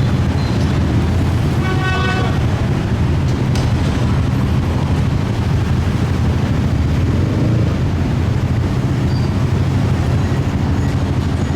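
Steady low drone of idling motor engines, with a short horn toot about two seconds in.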